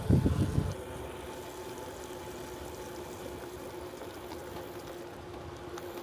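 Wind buffeting the microphone of a bike-mounted camera, which cuts off less than a second in. After that a steady, quieter hiss remains, with a faint steady hum.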